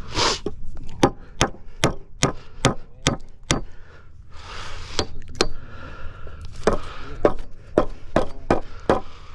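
Hammer driving nails into wooden 2x6 concrete forms: quick, even blows about two and a half a second, in two runs with a short break just before the middle.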